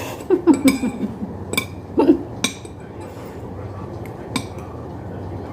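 Spoon and fork clinking against a plate or bowl during a meal: several sharp clinks over the first two seconds or so, then only a low steady room hum.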